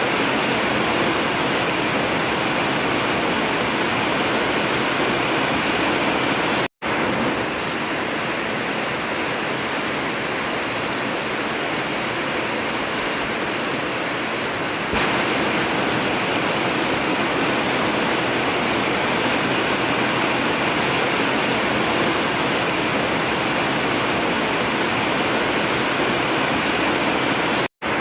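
Heavy rain falling steadily on an old tin (zinc) roof, a dense, even hiss. The sound drops out for an instant twice.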